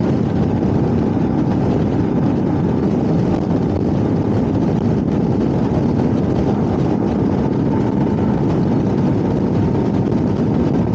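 Royal Enfield Himalayan single-cylinder motorcycle engine running steadily at road speed, mixed with wind and road noise.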